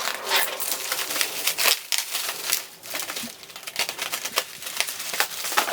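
Plastic bubble-wrap packaging crinkling and crackling as a parcel is unwrapped by hand, with many irregular small crackles and taps.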